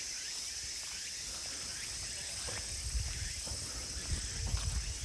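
Steady high-pitched chorus of insects such as crickets singing in woodland, with footsteps on a path thudding in the second half.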